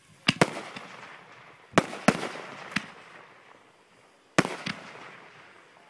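Consumer fireworks going off: sharp bangs, mostly in pairs about a second and a half apart, each followed by a crackling, fading tail.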